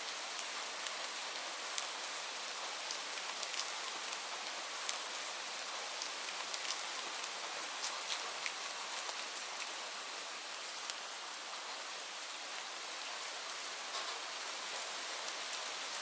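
Steady rain falling on leaves, a continuous hiss dotted with the sharp ticks of single drops striking.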